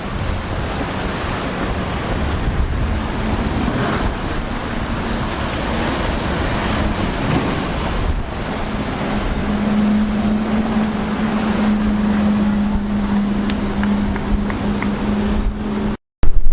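Wind rushing over the microphone and surf, with a motorboat engine's steady drone coming in a few seconds in and strongest in the second half before the sound cuts out briefly near the end.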